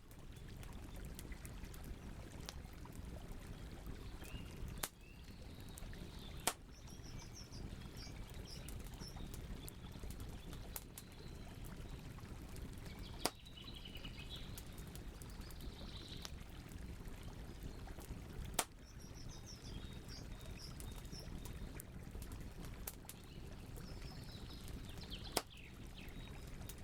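Campfire crackling steadily over a low rush, with about five louder sharp pops spread through. Birds chirp on and off.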